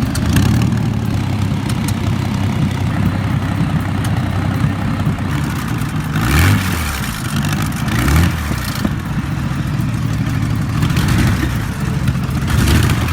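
Large wartime piston aero engine running, with three short blips of the throttle: about six seconds in, again about two seconds later, and near the end.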